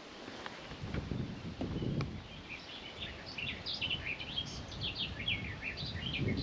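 A songbird sings a long, fast run of varied high chirping notes, starting about two seconds in. Underneath is a low rumble with a few soft thumps.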